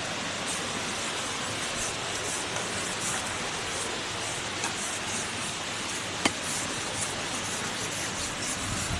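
Steady windy hiss with brief higher gusts of hiss coming and going, and one sharp click about six seconds in.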